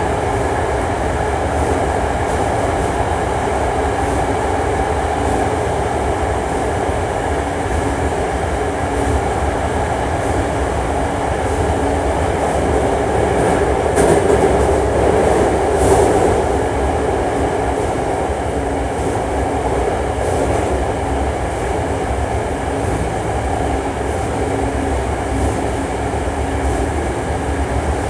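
Hankyu 1300 series electric train car running at speed, heard from inside: a steady rumble with a level whine from the running gear. Two short clicks about halfway through.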